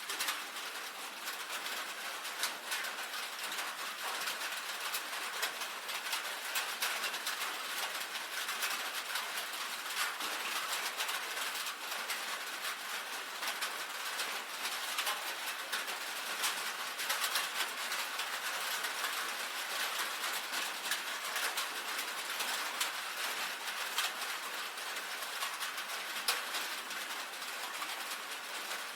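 Rain on a tin roof: a steady, dense patter of drops with many sharp single taps.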